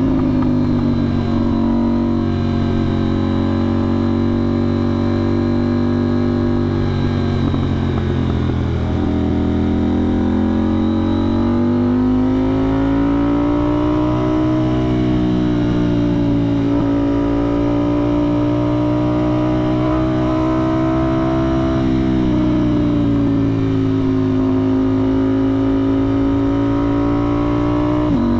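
KTM 990 Duke's parallel-twin engine running through a budget aftermarket exhaust with the soundbox removed, the bike cruising with its engine note rising and falling gently with small throttle changes.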